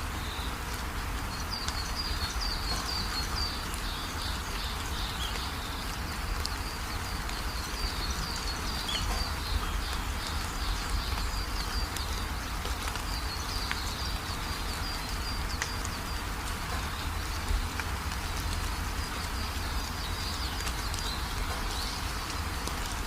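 Steady rain falling, with rows of short, high-pitched chirps running through it and a constant low rumble underneath.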